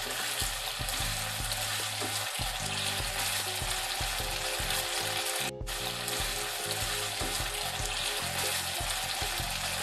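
Chicken 65 pieces in a thick tomato gravy sizzling over a low flame in a non-stick kadai as a flat spatula stirs them. The sizzle is steady, breaking off for an instant about halfway.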